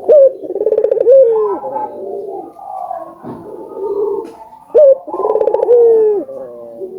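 Barbary doves cooing. Twice, about five seconds apart, one bird gives a loud call: a sharp high opening note, a fast rolling trill, then a drawn-out falling note, over softer overlapping coos from other doves.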